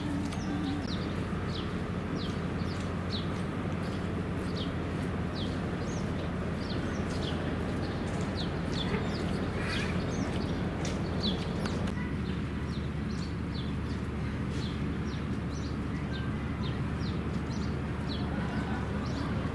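Many small birds chirping: short, high, falling calls scattered throughout, over a steady low rumble.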